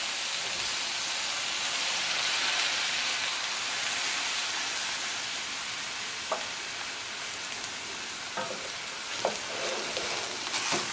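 Vegetable stir-fry sizzling in a hot stainless steel skillet as a thickened sauce of coconut aminos, water and arrowroot starch is poured in, a steady frying hiss. A few light knocks in the second half as a wooden spatula starts stirring in the pan.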